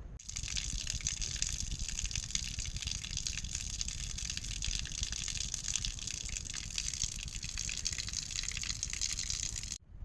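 Steady hiss of rushing water that starts abruptly and cuts off suddenly just before the end.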